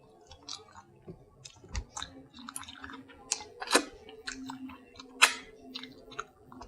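Close-miked eating: a person chewing with wet mouth clicks, two louder clicks about three and a half and five seconds in.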